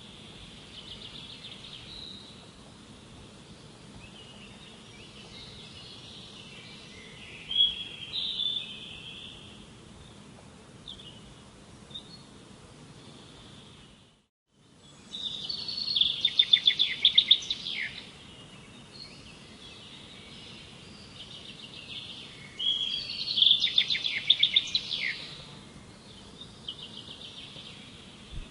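Songbirds singing in bursts of rapid trilled, chattering phrases, loudest just after halfway through and again near the end, over a faint steady background hiss. The sound drops out for a moment just before halfway.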